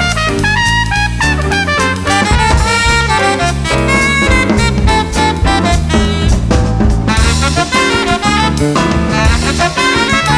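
Swing jazz played by a small band, with brass or saxophone lines over a walking bass.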